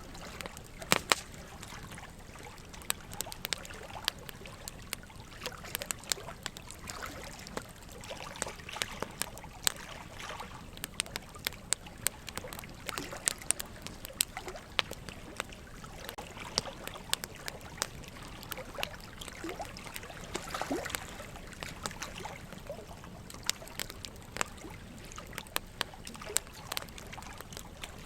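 Wood fire crackling, with irregular sharp pops and snaps, the loudest about a second in, over a steady trickle and gurgle of running water.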